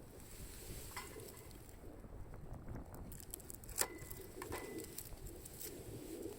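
A dove cooing softly in the background, low repeated coos. There are a couple of sharp clinks, each ringing briefly with a thin metallic tone. The louder clink comes just under four seconds in.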